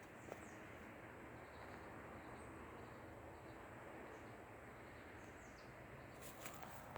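Quiet forest ambience: a steady low hush with a few faint, brief high bird chirps.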